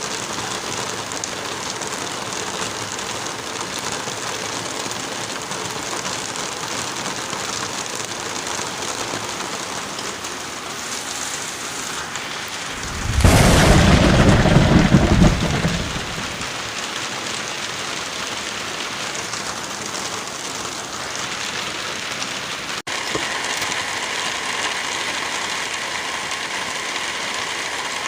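Steady heavy rain, with one loud thunderclap about halfway through that rumbles for about three seconds. A moment of dropout about three-quarters of the way in, after which the rain continues with a slightly changed texture.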